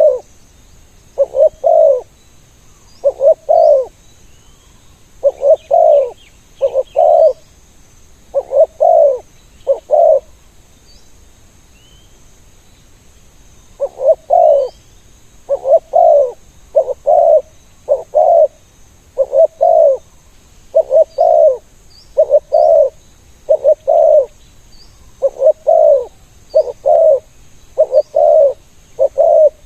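Spotted doves cooing over and over in short paired coos, with a pause of a few seconds about a third of the way in. Faint chirps of small birds sound above them.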